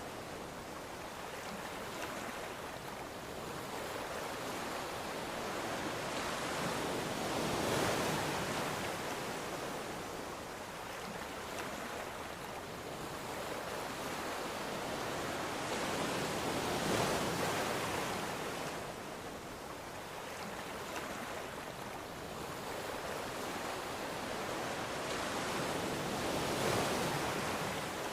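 Ocean waves washing onto the shore, a steady surf hiss that swells and eases three times, about nine seconds apart.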